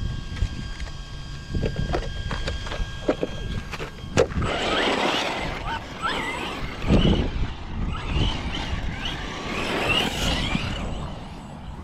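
Arrma Vorteks 223 RC stadium truck with a Hobbywing Max10 G2 2400kV brushless motor running: a whine that rises and falls with the throttle, over tyre noise. There are a few sharp knocks first, the strongest about four seconds in.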